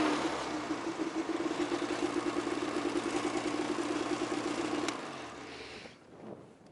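Snowmobile engine idling with a steady, pulsing note, then switched off about five seconds in with a click.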